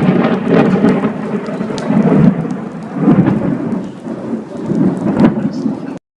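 Thunder rumbling and rolling in a downpour of rain, swelling and easing in several waves, with sharp crackles; the sound cuts off abruptly just before the end.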